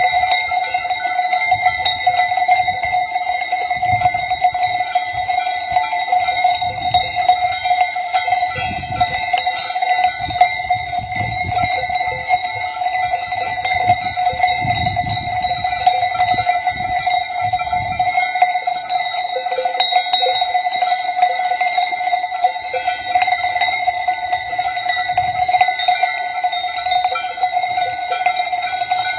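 Bells on a flock of sheep ringing together in a continuous jangle, with no breaks.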